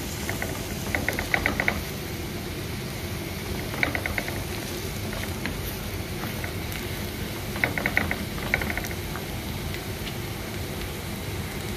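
Onions and chilli powder sizzling in coconut oil in a non-stick pan as the masala is sautéed, with a wooden spatula scraping and tapping the pan in three short bursts of rapid clicks.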